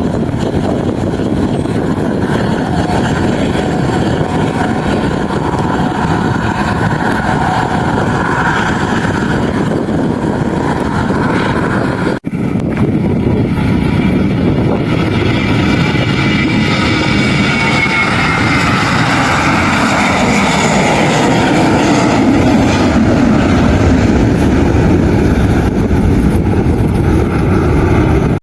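Aircraft engines running loud as an airliner passes close by, with tones in the roar sliding down in pitch. It cuts off abruptly about twelve seconds in, then resumes and grows louder toward the end.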